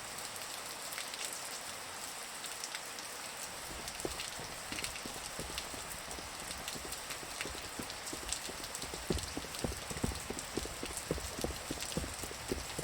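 Sound-effect ambience of steady rain, with footsteps starting about four seconds in and growing louder as they come closer.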